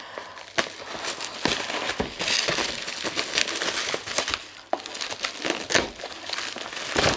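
Packaging being hacked open with a blunt knife: scratchy crinkling and scraping with many sharp clicks, irregular throughout.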